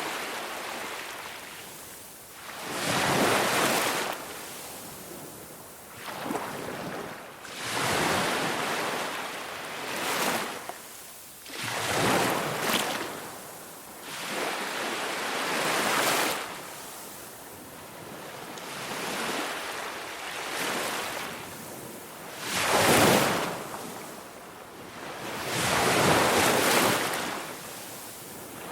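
Ocean waves breaking on a beach, surf washing in and drawing back in repeated swells of rushing noise every two to four seconds.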